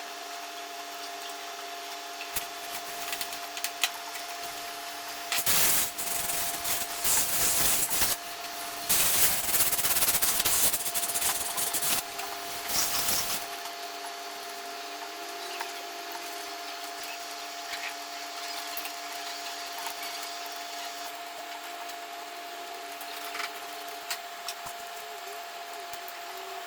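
Metal lathe running with a steady hum, and for about eight seconds in the middle a loud scraping rasp of a steel bolt head being cut down.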